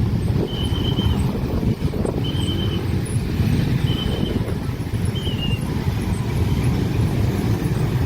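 Train passing over a level crossing, a loud steady rumble of wheels and engine, while the crossing's warning signal sounds a short high tone about every second and a half.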